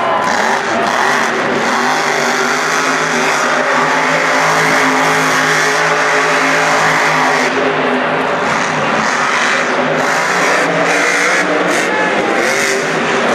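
Monster truck engine running hard at high revs, the pitch climbing over the first few seconds, holding, then easing past the middle, with a dense noisy wash under it.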